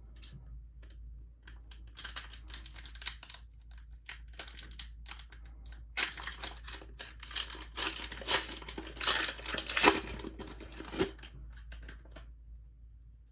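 Plastic packaging being torn open and crinkled by hand: a short spell of crackling about two seconds in, then a longer, louder one from about six seconds in that stops shortly before the end.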